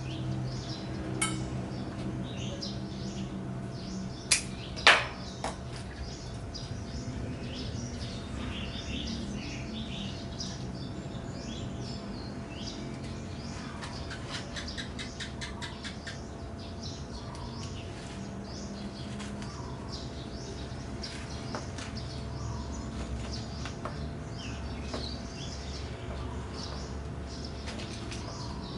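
Birds chirping steadily in the background, with a few sharp clicks about four to five seconds in, the loudest near five seconds, and a quick run of faint ticks around the middle.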